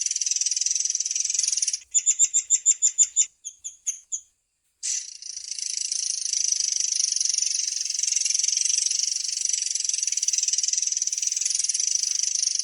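Murai air songbird singing a long, high, continuous rolling trill. About two seconds in, a quick run of about ten clear notes breaks it, followed by a few slower notes and a short pause, before the trill starts again and carries on.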